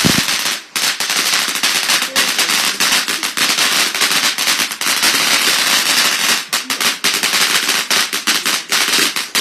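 Garden firework from a box going off in a dense, rapid run of crackles and pops with hardly a break.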